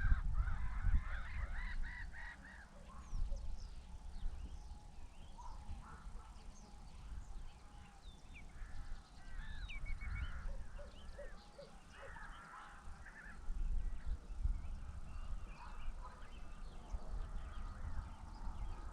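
Birds calling by a lake: a run of loud honking calls in the first couple of seconds, then many short, high chirps and calls from several birds, over a low, uneven rumble.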